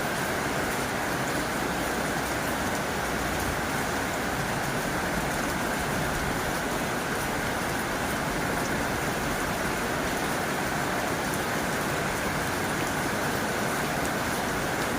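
Heavy rain falling steadily on a tin roof: a dense, unbroken patter of drops.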